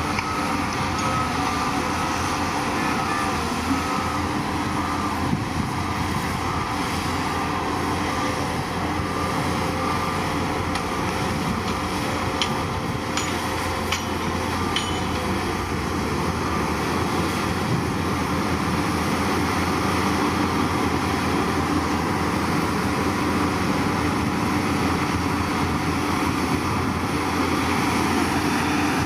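Heavy construction machine's diesel engine running steadily, with a reversing alarm beeping for the first few seconds. A few light knocks come around the middle.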